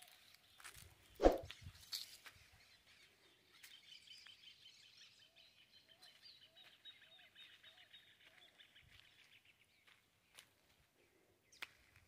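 Birds calling in open scrubby woodland: a long, high chattering trill for several seconds in the middle, over soft chirps repeated about twice a second. A sharp knock comes about a second in.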